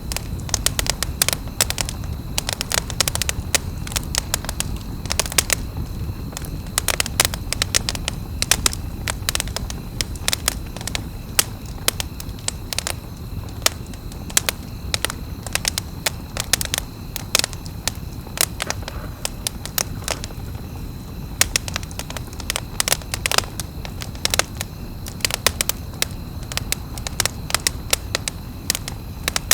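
Campfire crackling: frequent, irregular sharp pops and cracks of burning wood over a steady low rush of flame.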